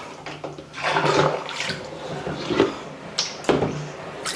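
Tap water running and splashing onto a plastic fridge part being rinsed, with the plastic knocking and clattering as it is handled.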